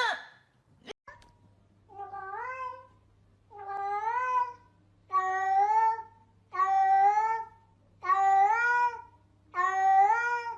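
A cat meowing six times in a row, about once every second and a half, each meow rising in pitch and then holding.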